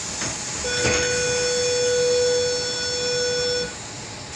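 Sydney Tangara train's door-closing warning tone: a single steady electronic tone held for about three seconds, with a short burst of hiss just after it starts, signalling that the doors are about to close.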